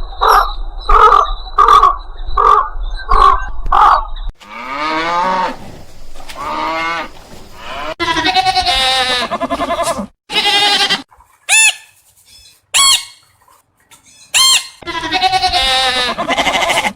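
A string of different animal calls: first about four seconds of short calls repeated at an even pace, then several long, wavering bleating calls, broken by a few short sharp bird-like calls.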